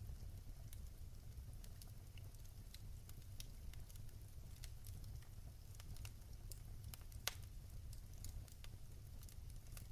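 Wood fire crackling in a fireplace: scattered small pops and snaps over a low, steady rumble of the flames, with one louder pop about seven seconds in.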